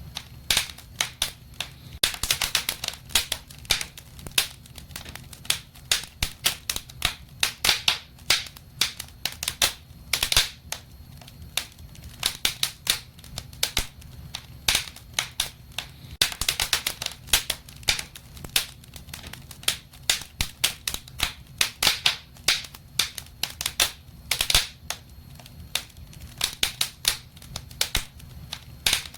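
Wood fire in a fireplace crackling and popping, with frequent irregular sharp snaps, some in quick clusters, over a low steady rumble.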